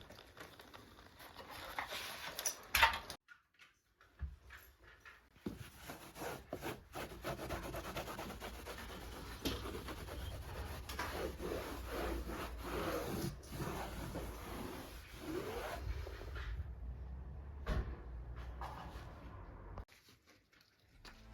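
Irregular rubbing and scraping handling noises with scattered knocks, the sharpest knock about three seconds in, and a few short squeaks about two-thirds of the way through.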